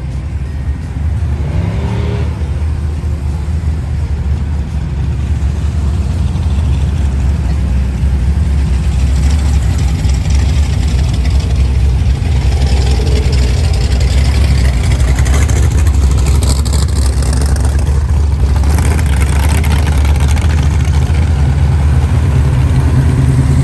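Car engines running close by in a loud, steady low rumble that slowly grows louder.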